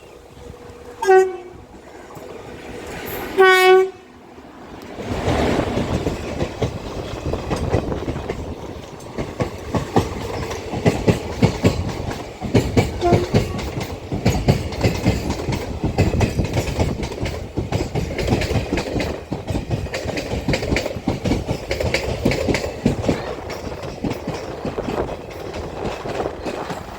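Indian Railways train horn sounding twice, a short toot then a longer blast, as the Tiruchirappalli–Thiruvananthapuram Intercity Express arrives. Then the coaches roll past with a steady rhythmic clickety-clack of wheels over the rail joints.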